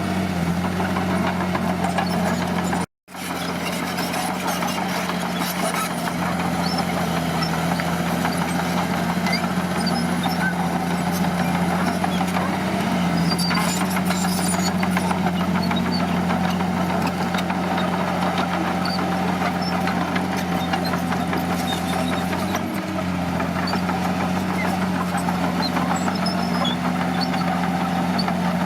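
Heavy diesel earthmoving machine engine running steadily at a near-constant speed, its pitch shifting slightly now and then. It cuts out to silence for a moment about three seconds in.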